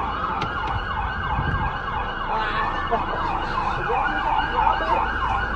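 Emergency vehicle siren sounding a fast yelp, its pitch sweeping up and down about three times a second.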